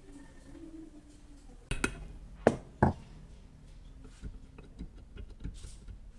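Three sharp knocks in quick succession a little under two seconds in, followed by a scatter of lighter clicks and taps.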